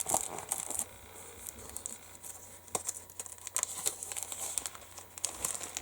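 Thin plastic kit bag crinkling as it is handled and opened, with a few sharp clicks scattered through.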